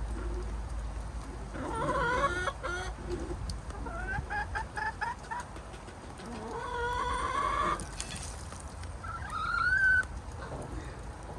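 Hens clucking and calling: a quick run of short clucks, then a longer drawn-out squawk, and a shorter rising call near the end.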